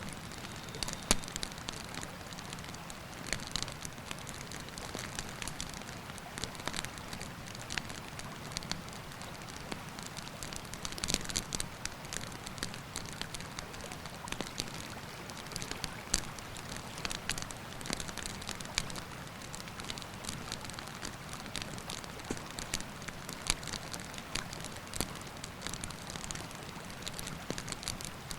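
Wood campfire crackling, with irregular sharp pops and snaps, over a steady rushing of river water.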